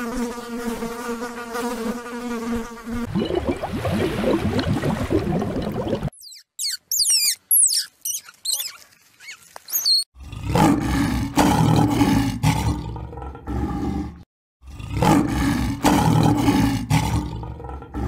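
A fly buzzing with a steady hum for the first few seconds. In the second half, lions growl in two long, deep, pulsing bouts with a short break between them.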